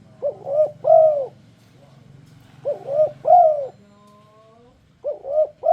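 Spotted dove (tekukur) cooing in a repeated phrase: two short coos followed by a longer, louder drawn-out coo, given three times about two and a half seconds apart.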